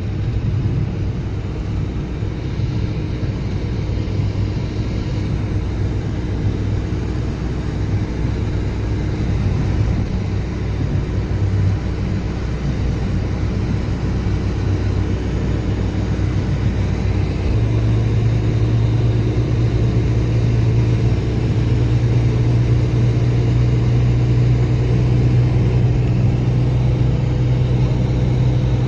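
Steady low rumble with a droning hum that grows stronger a little after halfway.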